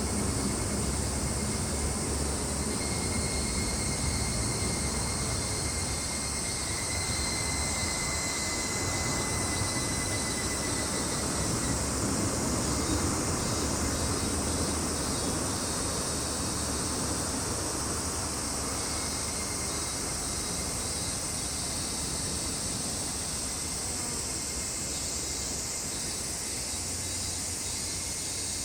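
Steady high-pitched drone of a summer insect chorus, with a thin steady whine in the first half. Under it runs a low distant rumble that gradually fades.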